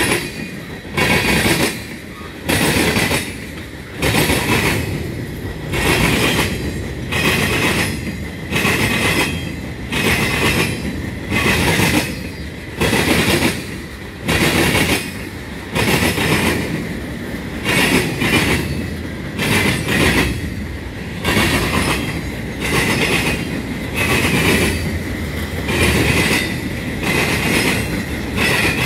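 CSX freight cars, tank cars then boxcars, rolling slowly past on steel wheels. A steady low rumble is broken by a loud burst of clanking wheel noise with a high-pitched ringing every second and a bit.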